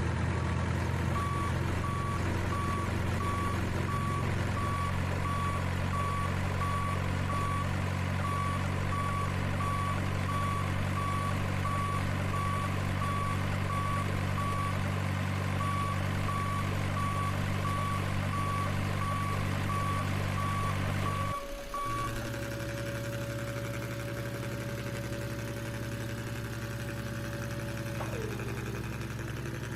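Truck engine running steadily with a reversing beeper sounding at a regular pace. About 21 seconds in, the beeping stops and the engine note changes, and a steady tone holds for several seconds before dropping away.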